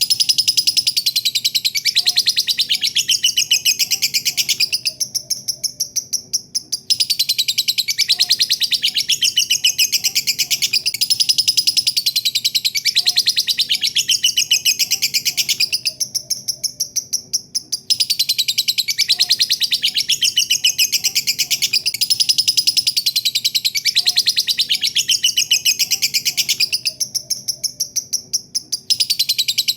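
Lovebird's long 'ngekek' chatter: a fast, unbroken string of shrill, high calls, easing off into a quieter stretch of about two seconds three times.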